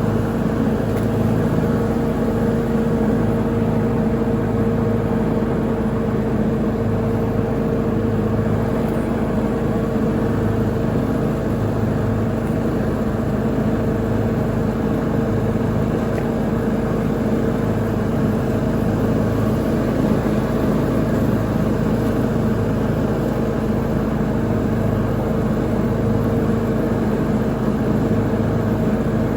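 Lawn mower engine running steadily at constant speed while mowing, with a steady hum and low rumble.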